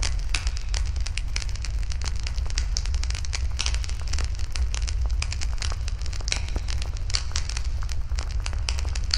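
Wood fire burning in a fire pit, crackling with frequent irregular pops and snaps over a steady low rumble.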